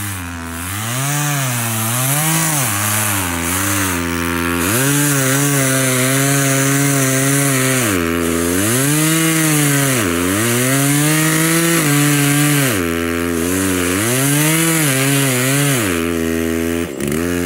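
Chainsaw running and cutting into a tree, its engine speed repeatedly rising and falling as the throttle is worked through the cut. It drops out briefly near the end.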